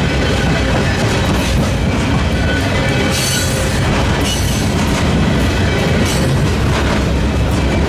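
Freight train of loaded military flatcars rolling past at about 25 mph, a steady loud rumble of steel wheels on rail with brief hissing bursts about three seconds in and again around six.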